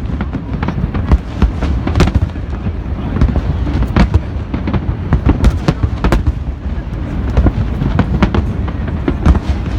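Fireworks display going off continuously: many sharp bangs and deep booms in quick succession, several a second, over a steady low rumble.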